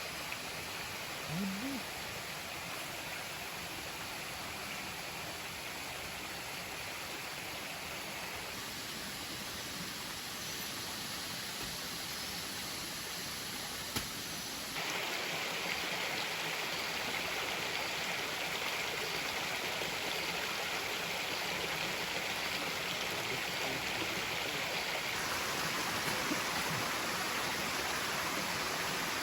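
Waterfall and stream water rushing steadily. The sound gets suddenly louder about halfway through.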